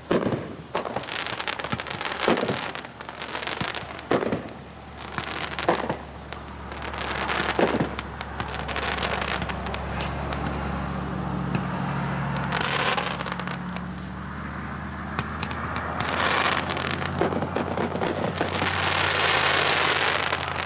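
A 42-shot 500-gram consumer fireworks cake firing in the distance: a string of sharp booming reports, each followed by crackling, then longer crackling stretches. A steady low hum runs underneath in the second half.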